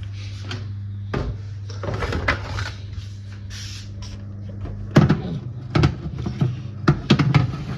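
Kitchen clatter: sharp knocks and clunks of a baking pan and a door being handled, densest in the second half, over a steady low appliance hum.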